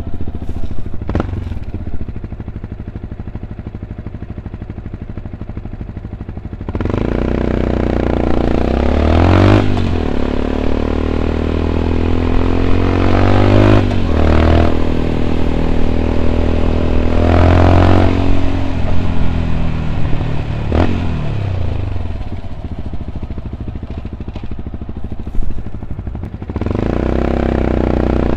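Yamaha WR 125 X's single-cylinder four-stroke engine through an Arrow exhaust with dB killer. It runs low and steady for several seconds, then pulls away with the revs climbing and dropping at three upshifts. It eases off and pulls away again near the end.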